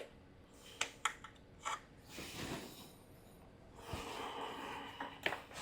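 Quiet handling sounds: a few small clicks and taps with soft rubbing, and a couple of breaths.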